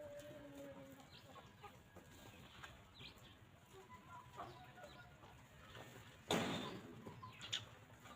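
Free-range hens clucking softly, with a short held note at the start and scattered low calls and pecking clicks. About six seconds in there is one sudden loud, noisy rustle that fades within about half a second, followed by a sharp click.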